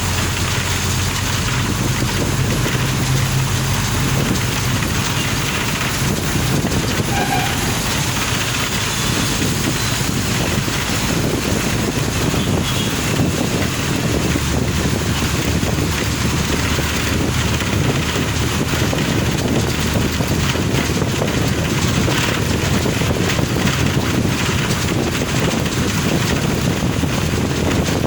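A car driving on a wet road: steady tyre and road noise with a hiss of spray and wind, over a low engine drone that drops in pitch about halfway through.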